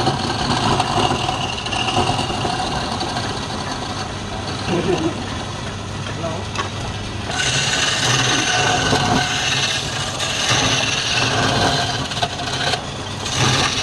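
Wood lathe running with a steady motor hum while a turning tool rubs and scrapes the spinning wood; the cutting gets louder and hissier about seven seconds in.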